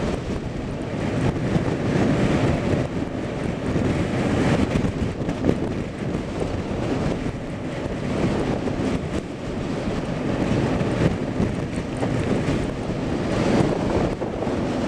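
Wind buffeting the microphone: a steady rushing noise that swells and eases slightly.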